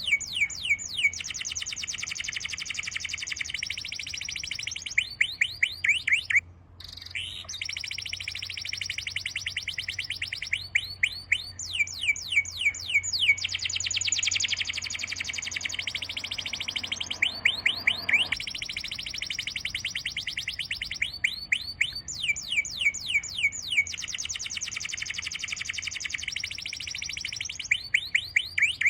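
Birds singing long phrases of rapid, repeated high chirps and trills, with a brief pause about six and a half seconds in.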